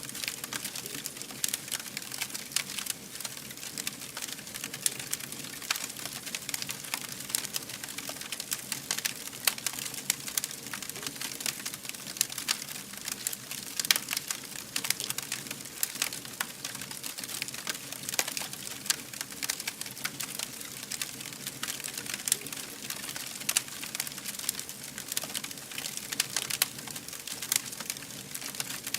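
Wood fire burning with steady, dense crackling and popping over a low hiss, with no letup.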